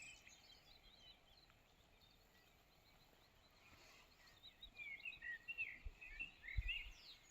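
Small birds chirping and twittering in quick, curving notes, sparse at first and busier from about halfway through, over faint background noise. A brief low bump sounds near the end.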